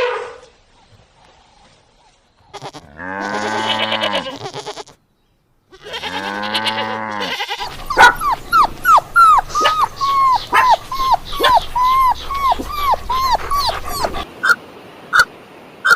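Animal calls: two long, drawn-out calls, then a quick run of short calls that slide down in pitch, about two a second, ending in a few evenly spaced short calls.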